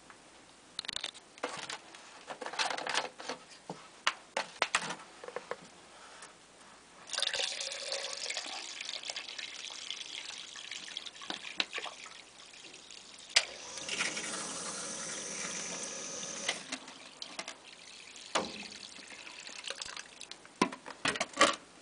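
Water poured into a sump pump pit to test the pump, splashing in two spells, about seven seconds in and again about fourteen seconds in, with scattered knocks and clicks of handling between.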